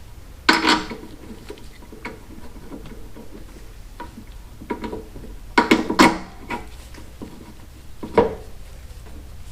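Metal tools and motorcycle front-wheel parts being handled: sharp clanks about half a second in, around six seconds in and again near eight seconds, with small clicks between.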